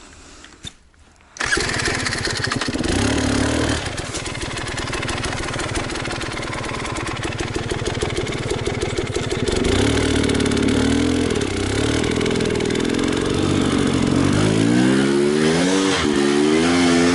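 Enduro motorcycle engine catching suddenly and running with a fast pulsing beat, then revved up and down several times near the end.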